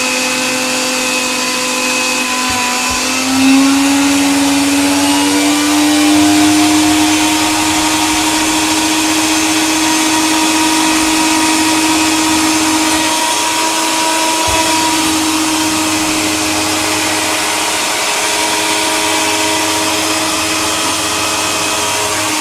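Electric coffee grinder motor running steadily with a high whine; its pitch steps up a little about three and a half seconds in and then holds.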